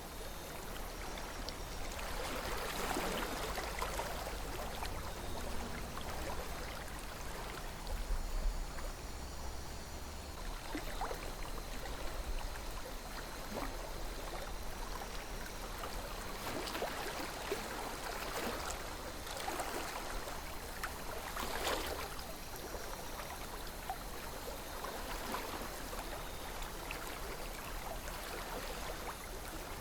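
A shallow river flowing steadily, its water babbling and gurgling with frequent small splashes, over a low rumble.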